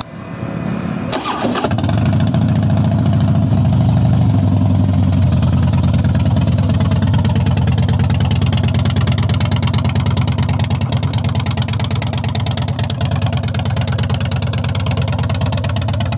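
2008 Harley-Davidson Heritage Softail Classic's 96-cubic-inch V-twin started with the electric starter, catching within about two seconds, then idling steadily. The exhaust is louder than stock through factory-looking pipes, which the seller guesses have had their baffles removed.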